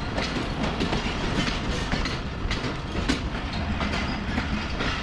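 Railway train moving along the track: a steady rumble with irregular metallic clacks of the wheels over rail joints.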